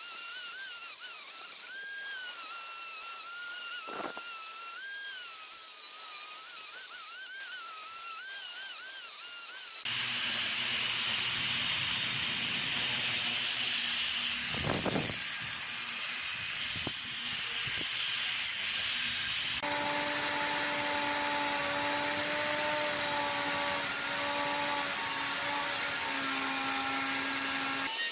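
Small electric power tools running in three separately edited clips. First comes a high whine whose pitch wavers as the tool is loaded. Then a rougher, hissing stretch. Then a steady motor hum near the end.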